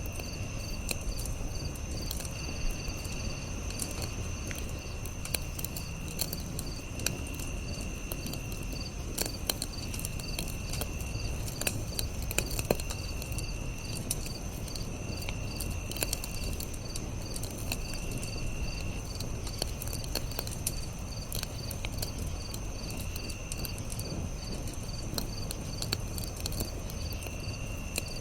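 Campfire crackling, with frequent small sharp pops over a low rumble. Night insects chirp steadily in a rapid pulse above it, and a lower insect trill about a second long comes and goes every couple of seconds.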